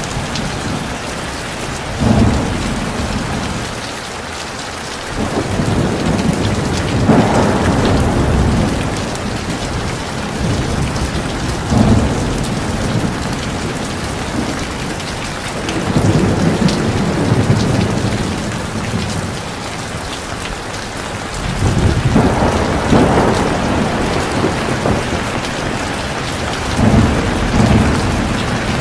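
Heavy rain falling steadily with a dense hiss, under low rolls of thunder that swell and fade every few seconds.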